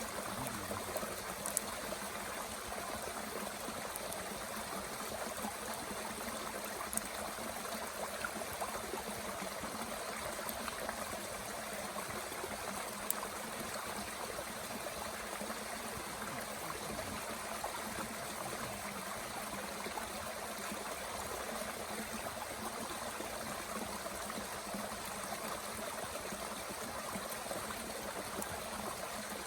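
A mountain stream running steadily, with a few sharp crackles from a small wood fire burning in a Bushbox twig stove.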